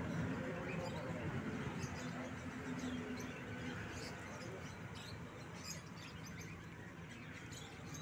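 Small cage birds chirping in short, scattered bursts over a low background hum of the shop.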